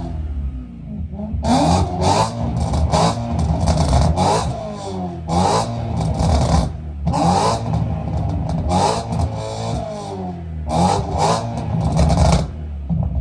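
A car engine revved hard in about four bursts, its pitch rising and falling with each rev, with sharp cracks through the loudest parts.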